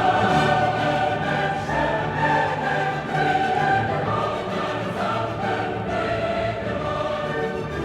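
Classical choral music: a choir singing sustained notes with orchestral accompaniment, coming in loudly at the start.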